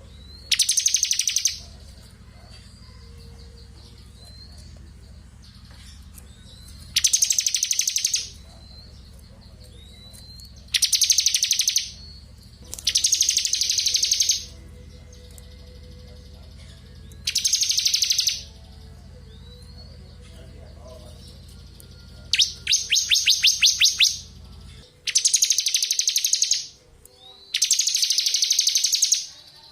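Bar-winged prinia (ciblek kristal) singing its buzzing 'ngebren' song: about eight dense, high trills of roughly a second each, one of them broken into distinct rapid ticks, with thin short rising chirps in the gaps.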